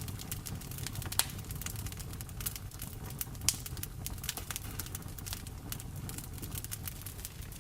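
Wood fire in a fireplace crackling with many small pops, two louder sharp pops about a second in and three and a half seconds in, over a low rumble of the flames and the steady hiss of rain.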